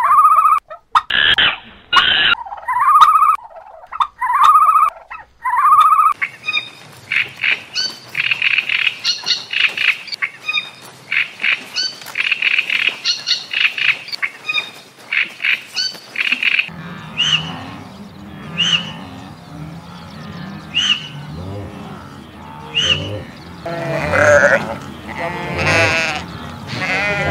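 A string of animal sounds: short arched calls repeating about once a second, then busy high-pitched bird chirping, then a low pulsing sound under scattered chirps, and sheep bleating near the end.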